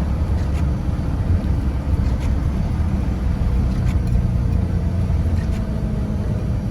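Strong storm wind gusting through heavy rain and buffeting the microphone as a steady low rumble, with a few faint ticks.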